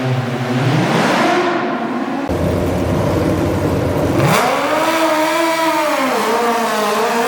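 Garden tractor pulling engine revving, its pitch climbing, holding and dropping back, with a sharp crack about four seconds in.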